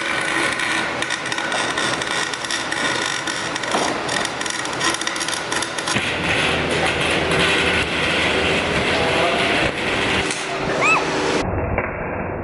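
Electric welding arc crackling and sizzling steadily while the differential gears are welded solid, broken off by an abrupt cut near the end.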